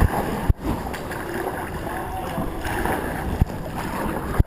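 Wind rumbling over the microphone, with a few low thumps.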